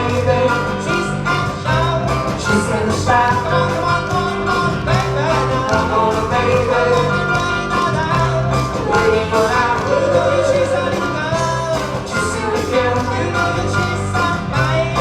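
Live band playing an upbeat rock and roll song, a steady bass line under guitar, with a singer's voice over it.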